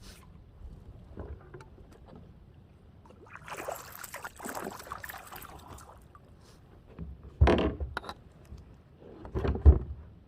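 Kayak paddle strokes in the water: a couple of seconds of splashing and swishing, then two louder, short strokes near the end.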